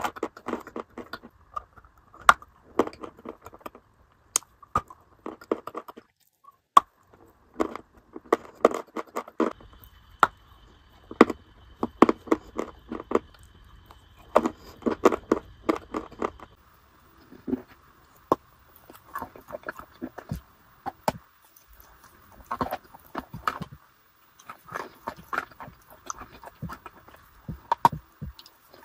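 Close-up crunching and chewing as a white chalky block is bitten into and eaten. Irregular clusters of sharp crackles come with short pauses between bites.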